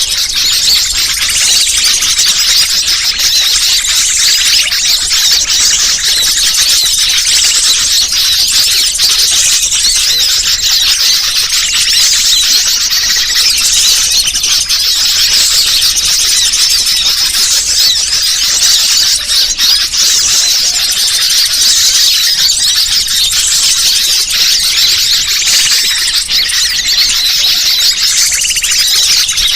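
Bird-lure (pikat) recording: a dense, unbroken chorus of small birds' high-pitched chirps and squeaky trills, used to draw wild birds in.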